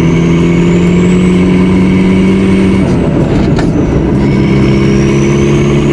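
1989 Volkswagen Jetta's 1.6-litre turbo-diesel engine pulling on the move inside the cabin, with a high turbo whine that climbs and then falls away. About three seconds in the engine note breaks off with a knock, then comes back at a lower pitch.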